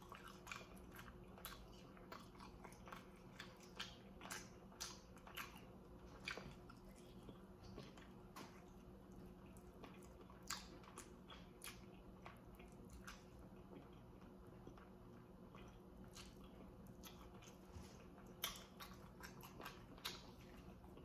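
Faint chewing and biting on baked chicken drumsticks: soft, irregular wet mouth clicks and smacks, scattered through, a few of them louder.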